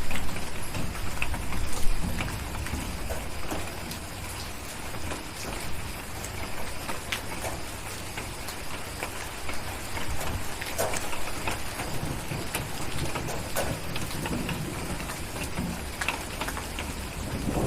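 Steady rain with scattered sharp pops of a crackling wood fire over a low rumble of distant thunder, which is louder in the first two seconds and swells again at the end.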